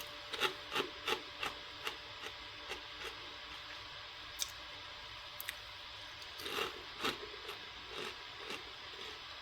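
Chewing a crunchy pea-flour onion-ring snack (Peatos) with the mouth: a steady run of crunches about three a second for the first few seconds, then slower, softer chews.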